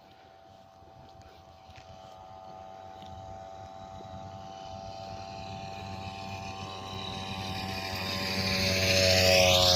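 A motor vehicle's engine approaching, growing steadily louder over several seconds, then passing close by near the end with its pitch dropping as it goes past.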